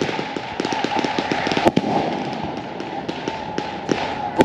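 Fireworks crackling and fizzing: a dense run of small rapid pops over a steady hiss, with a sharper crack a little under two seconds in and another near the end.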